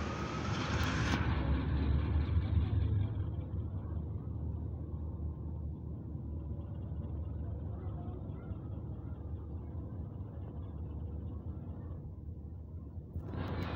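A diesel-hauled express train running: a steady low rumble, loudest in the first three seconds, then easing a little and holding steady.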